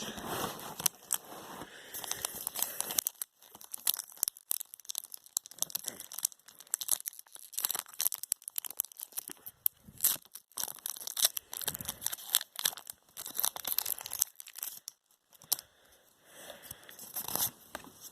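Packaging being torn open and crinkled by hand: irregular ripping and crackling of paper or plastic, with short pauses.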